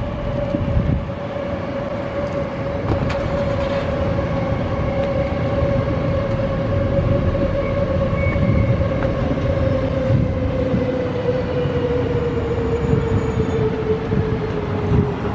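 Electric passenger train running past: a steady rumble with a whine that slowly falls in pitch.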